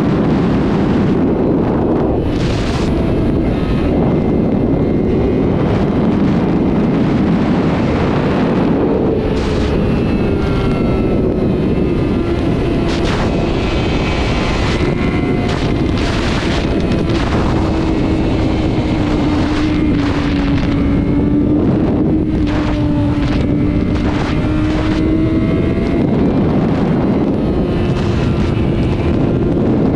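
Sport motorcycle running at high speed on the highway: heavy wind rush over the microphone with the engine's note drifting slowly up and down underneath.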